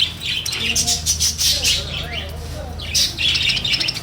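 Several small cage birds squawking and chirping in quick, overlapping high calls.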